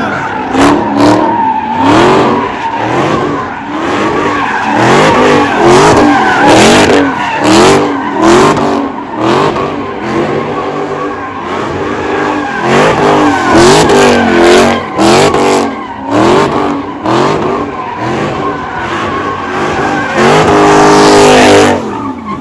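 A car doing donuts: the engine revs up and drops back about once a second while the tyres squeal and skid. Near the end the engine is held at high revs for a couple of seconds.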